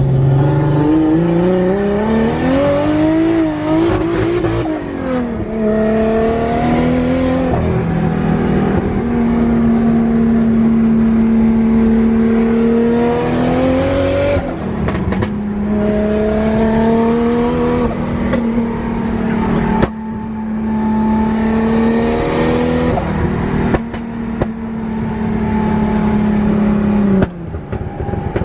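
Built 2JZ inline-six in a Nissan 240SX running hard under way. The revs hold steady for stretches and climb, with several sudden drops in pitch.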